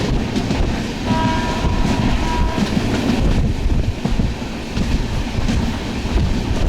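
Passenger train running, a loud steady rumble with wheel clatter heard from inside the carriage. The train's horn sounds one steady tone for about a second and a half, starting about a second in.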